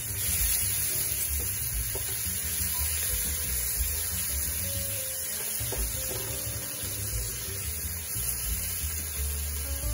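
Onion-tomato masala sizzling in oil in a frying pan while it is stirred with a silicone spatula, a steady hiss. Soft background music plays underneath.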